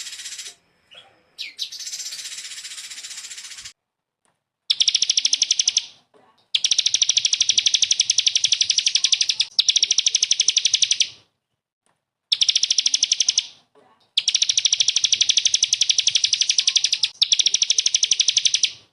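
Recorded small songbird singing 'tembakan' song: very fast, dry trills of rapidly repeated notes on a steady high pitch, delivered in long bursts with short pauses between, after two harsher, buzzier phrases at the start.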